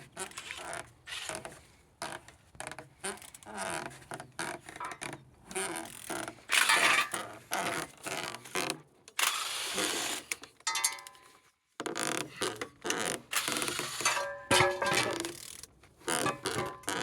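A removed engine being turned over by hand with a wrench on the crankshaft: uneven strokes of ratchet clicking and mechanical creaking. It turns freely, a sign that the engine is not seized.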